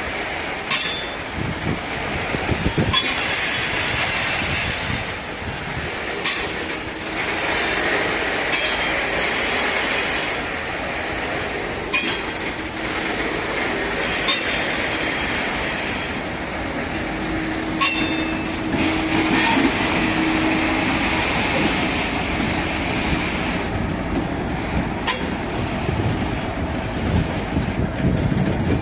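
Freight train wagons rolling past on the rails, with the wheels squealing and sharp clacks over rail joints every few seconds. A steady tone is heard for a few seconds past the middle.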